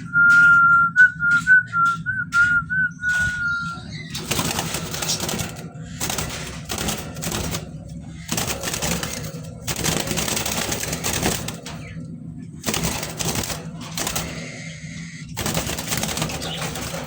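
Whistling: one held high note with small wavers for about the first four seconds, then a run of harsh, noisy bursts about a second long each, over a steady low hum.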